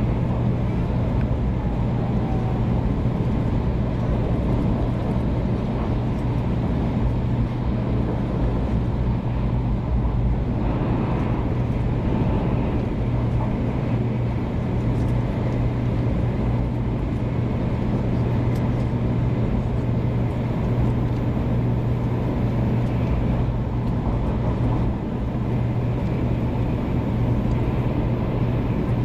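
Interior noise of a 500-series Shinkansen running at speed: a steady rumble with a constant low hum.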